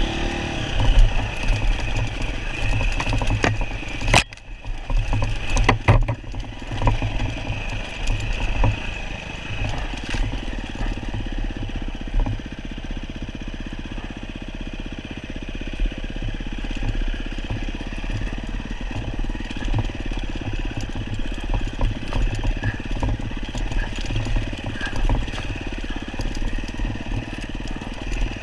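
Off-road motorcycle engine running steadily, with scattered knocks and clatter and a sharp knock about four seconds in.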